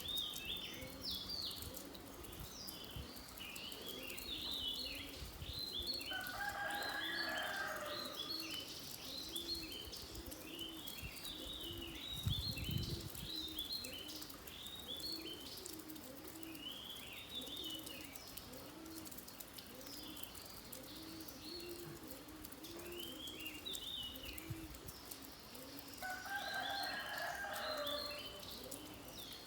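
A dense chorus of small birds chirping, with a steady run of low, repeated calls beneath them and light rain pattering. Twice, once early and once near the end, a louder two-pitched call stands out for a couple of seconds.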